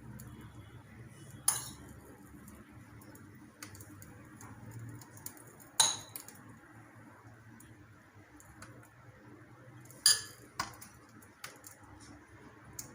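Cutlery clinking against a dish while food is handled: three sharp ringing clinks about four seconds apart, then a few lighter clicks near the end.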